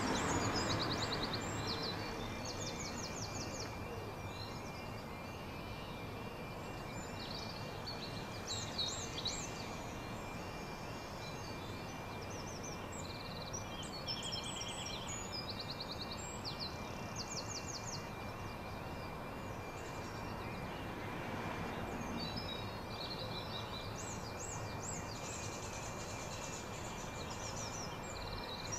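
Songbirds singing in short repeated trilled phrases over a steady outdoor background hum, with a faint steady high tone throughout.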